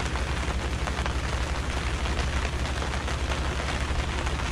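Heavy rain pattering on a pop-up canopy tent overhead, a dense steady patter of many drops with a low rumble underneath.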